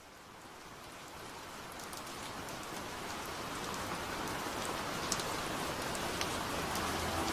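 Steady rain falling, with scattered individual drop clicks. It fades in from silence and grows steadily louder.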